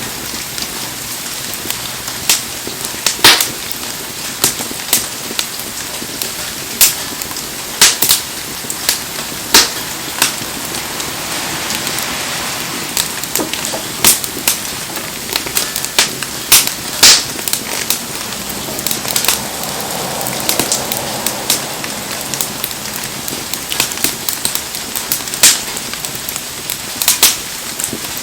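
Wood fire burning in heavy rain: a steady hiss of rain with irregular sharp pops and crackles from the burning wood, a few of them loud.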